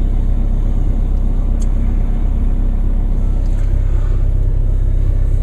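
Diesel car engine idling steadily at fast idle shortly after a cold start, heard from inside the cabin as an even low rumble.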